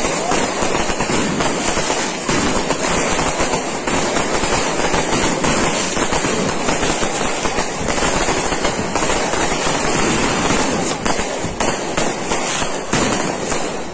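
Firecrackers and fireworks going off in a dense, continuous crackle, many sharp pops a second without a break.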